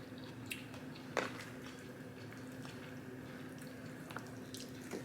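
Quiet eating sounds: a few soft clicks and wet mouth sounds while chewing, the clearest about a second in, over a faint steady hum.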